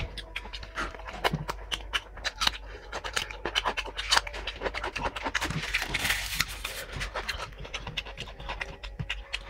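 Close-miked wet chewing and lip-smacking of a person eating puri and curry by hand, with many irregular mouth clicks and a short rustling patch about six seconds in.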